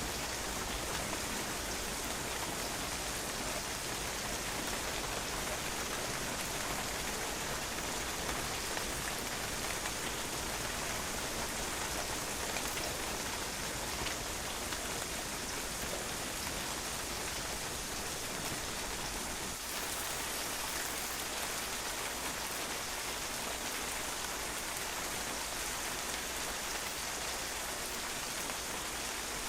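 Steady rain falling and drops spattering on a patio, an even, unbroken hiss of drops.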